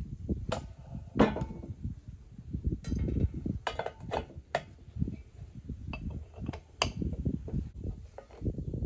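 Irregular metal clinks and knocks from handling a submersible vibrating water pump and tools, as its housing is opened to check the hammer plate.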